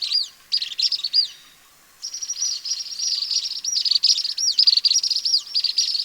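Asian palm swift calling: rapid, high-pitched twittering trills mixed with short notes that sweep up and back down. The twittering breaks off briefly about one and a half seconds in, then resumes unbroken.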